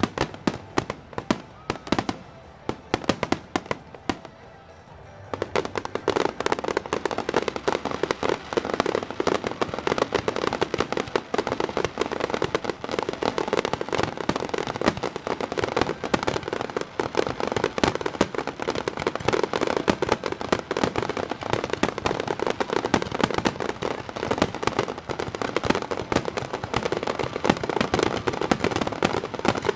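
Fireworks display: a run of firework bangs that thickens about five seconds in into a dense, continuous barrage of bursts and crackles.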